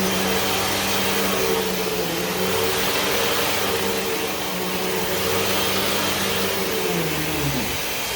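Hoover Wind Tunnel 2 upright vacuum cleaner running steadily, then switched off near the end, its motor winding down with a falling pitch.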